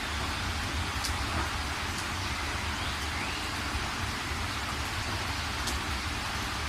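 Steady rain falling, an even hiss with a low rumble underneath and a few faint sharp drop ticks.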